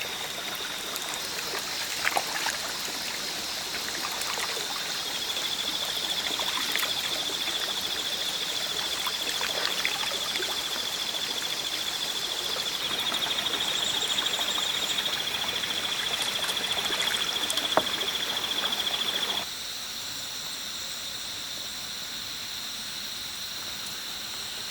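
Running water, like a small stream trickling, under a steady high-pitched buzz. The water sound cuts off suddenly about 19 seconds in, leaving the buzz.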